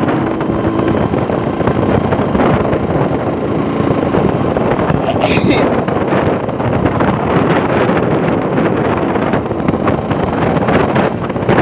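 Yamaha RX-King 135 two-stroke motorcycle running steadily on the move, with wind buffeting the microphone.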